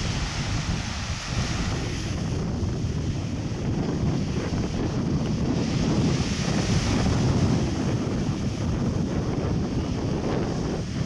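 Wind buffeting the microphone: a steady, gusty rumble with no distinct events.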